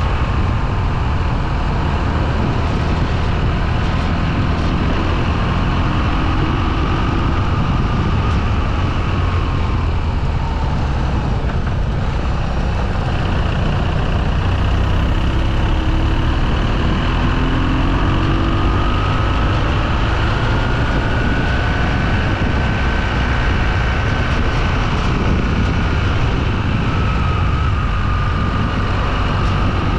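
Motorcycle engine running while riding, its pitch slowly falling and rising with speed, over a heavy steady low rumble.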